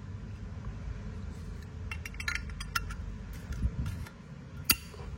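Solid-brass Zippo lighter being handled: small metallic clinks and rattles, then one sharp metallic click near the end.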